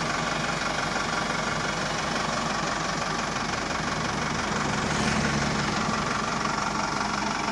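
A truck engine idling steadily, with a rapid low pulse, picking up slightly about two-thirds of the way through.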